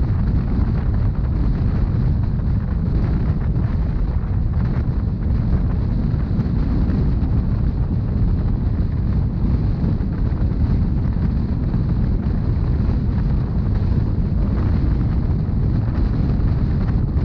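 Steady low rumble of a Rhaetian Railway narrow-gauge passenger train running, heard from on board: wheels on the rails and the carriage moving.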